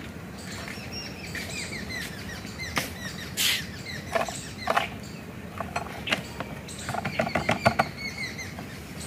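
Birds chirping and calling repeatedly, in short falling notes, with a quick run of loud chirps or clicks about seven seconds in. A few sharp clicks and knocks sound among them.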